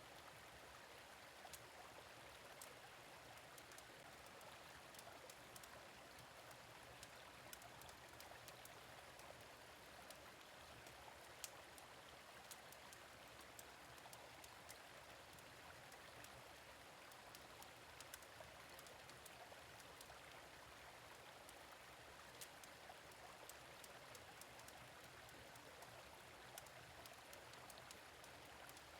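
Faint, steady rush of a gentle stream, with scattered small pops and crackles from a fire pit.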